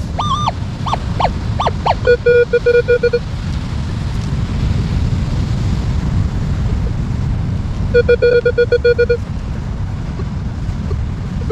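Minelab Manticore metal detector sounding off over a buried gold ring: several short rising-and-falling higher tones in the first two seconds, then a fast-pulsing lower tone that comes again about eight seconds in. Between the tones there is a steady low rushing noise.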